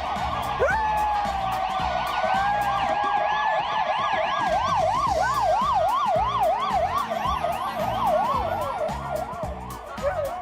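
Siren: a long held wail, then a fast up-and-down yelp at about three sweeps a second, over background music with a steady beat.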